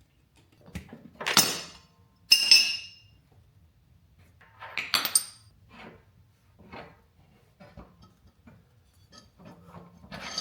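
Metal wheel-hub parts and tools clinking and knocking as a wheel is taken off its axle to get at the bearing: three loud, sharp clinks in the first five seconds, one ringing briefly, with lighter taps between.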